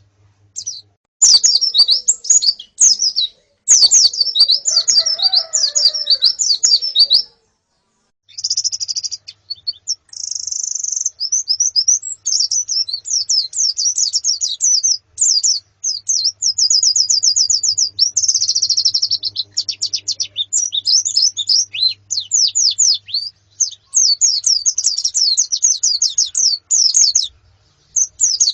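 Pleci (white-eyes) twittering: a colony giving long runs of rapid, high chirps with short breaks between them, one break about seven seconds in.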